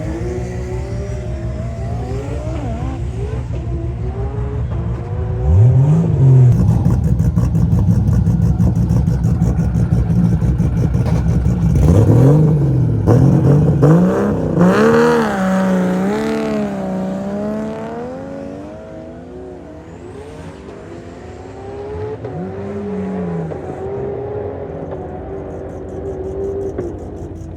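Performance car engines revving hard under acceleration, their pitch climbing and dropping again and again. Loudest through the middle, easing off for a moment, then building again near the end.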